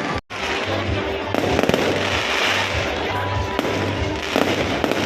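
Fireworks display bursting and crackling, over loud music with a steady bass beat. The audio cuts out briefly near the start.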